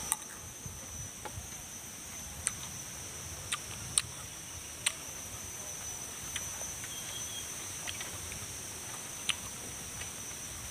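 Raw vegetable stalk crunched and chewed: about six sharp, short crunches spread through the stretch, the loudest about four seconds in. Under them runs a steady high drone of insects.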